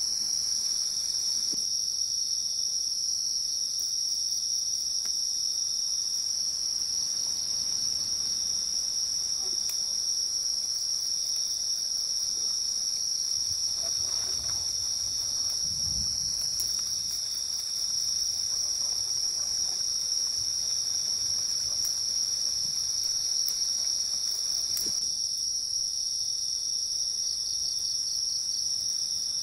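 Steady, high-pitched chorus of night insects in a tropical forest, with a faint low rustle about halfway through.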